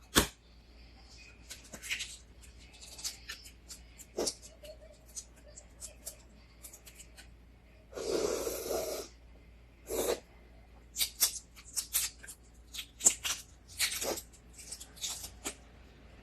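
Close-up eating sounds of a balut duck egg: scattered short, wet chewing clicks and crunches, with a noisier burst lasting about a second around the middle.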